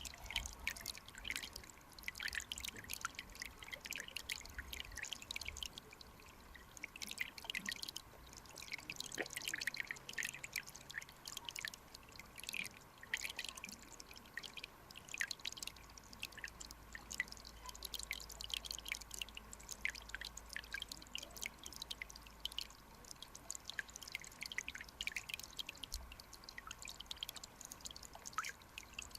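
Mountain stream water flowing: a dense, irregular patter of bubbling and dripping ticks over a steady wash, with a faint steady hum underneath.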